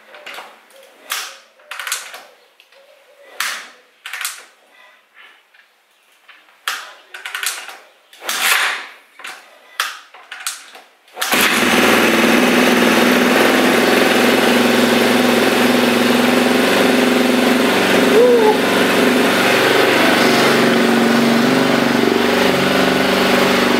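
Yamaha TT600R's single-cylinder four-stroke engine being kick-started cold on choke: several sharp kicks of the kick-start lever turn it over without catching. About eleven seconds in, the engine fires and settles into a loud, steady idle.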